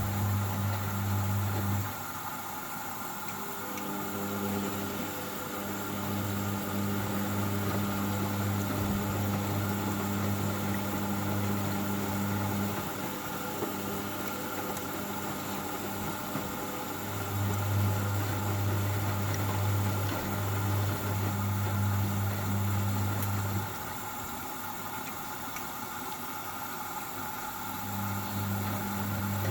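Hoover Baby washing machine in its first rinse: the drum motor hums in runs of several seconds, stopping and starting again as the drum tumbles, over a steady background whir.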